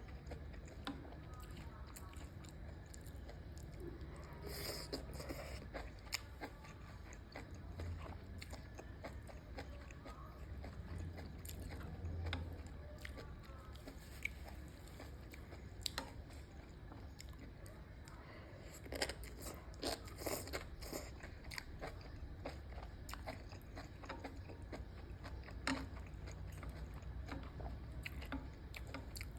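Close-up chewing and biting of enoki mushrooms: many small crunchy clicks and crackles, with a few louder bites in clusters.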